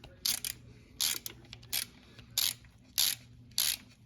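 Ratchet wrench clicking in short bursts, about seven strokes at a steady pace, spinning out an engine cover bolt that has just broken loose.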